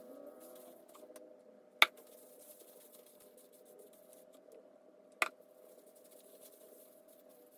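Two sharp clicks, about three and a half seconds apart, over a faint steady hum and soft rustling.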